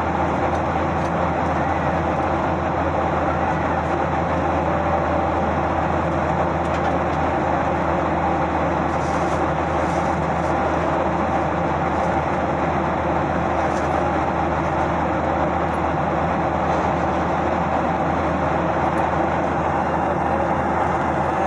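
Passenger aircraft cabin noise: the engines and airflow make a steady, even rush with a low hum underneath, unchanging in level.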